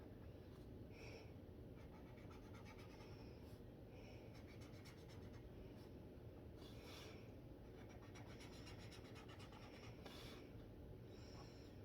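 Faint, short swishes of a dual brush pen's tip stroking across paper during colouring, coming at irregular intervals over quiet room tone.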